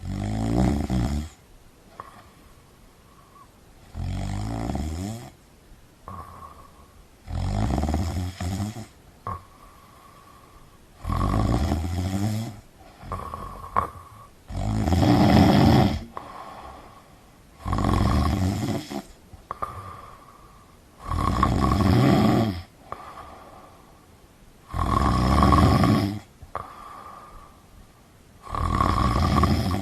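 Steady snoring: a loud snore about every three and a half seconds, each one to two seconds long, with a softer breath between snores.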